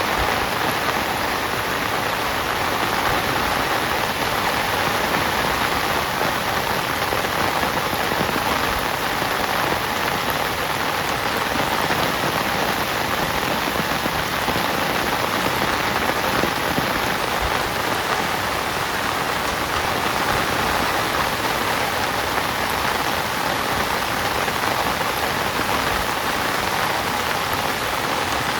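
Heavy rain falling steadily on a tent, an even hiss of drops with no breaks.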